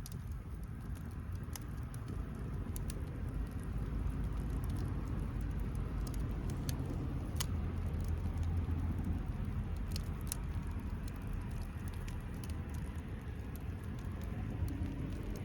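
Wood bonfire crackling, with scattered sharp pops and snaps over a steady low rumble.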